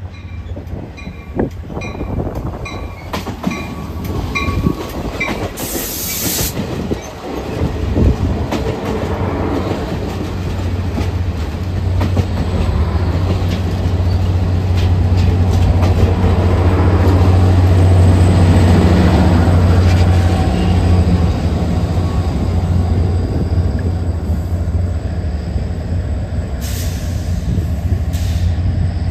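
A diesel-hauled passenger train moving through a station. A bell rings about twice a second for the first few seconds. Then the locomotive's engine drone builds to a peak and eases, with wheel squeal and brief bursts of hissing.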